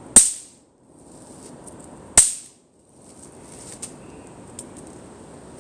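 Two sharp bangs about two seconds apart from small firecracker-type novelty fireworks going off, each dying away within about half a second.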